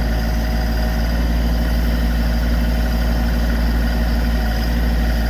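Branson 2500 compact tractor's engine running steadily while the BH100 backhoe is worked.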